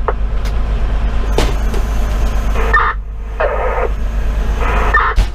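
Steady low rumble of a fire engine's Detroit Series 60 diesel and cab noise, with a few short bursts of garbled radio transmission in the second half.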